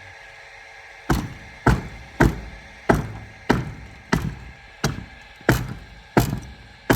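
Ten heavy blows struck on wood at a steady pace, about three every two seconds, each with a short ringing tail, beginning about a second in.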